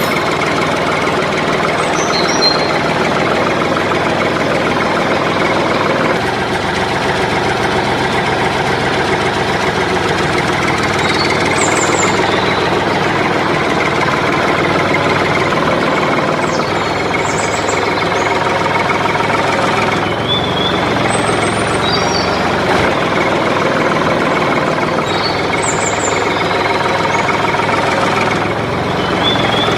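Homemade heavy-duty tractor's engine running steadily, with short high chirps over it now and then.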